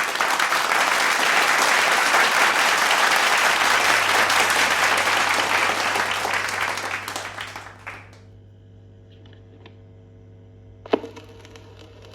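A loud, dense crackling noise like applause fades out by about eight seconds. It leaves a low steady hum and a single sharp click about eleven seconds in.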